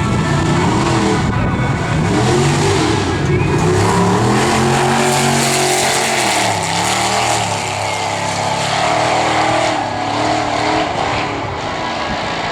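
Ford 100E drag car's engine at full throttle down the strip, its pitch climbing, dropping sharply about six seconds in at a gear change, then climbing again.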